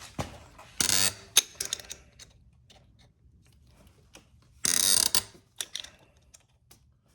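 Ratcheting speed wrench clicking in two short bursts as it turns the press screw of a chain breaker tool, pushing a rivet out of a motorcycle drive chain, with scattered single clicks of the tool between the bursts.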